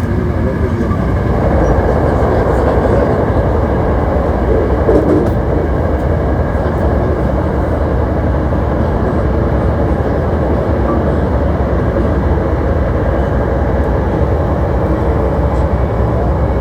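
Hankyu 1300 series electric train running along, heard from inside the car: a steady rumble of wheels on rails and running gear.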